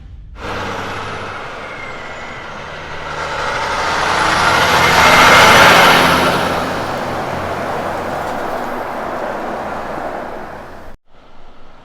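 A heavy road train's prime mover and trailers passing by: engine and tyre noise build to a peak about halfway through, then fade as it goes away. The sound cuts off abruptly shortly before the end.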